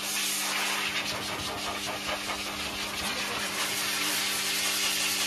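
A motor running steadily with a strong airy hiss and a constant hum beneath it, switched on abruptly just at the start.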